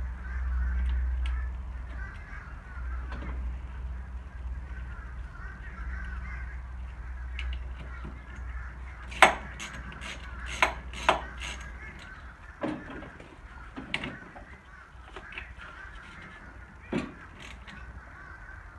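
Scattered sharp metallic clinks and knocks of hand tools and metal parts being handled, a handful of them from about halfway on, as the battery cables are hooked back up on a riding mower. Birds call in the background, and a low rumble fades out about two-thirds of the way through.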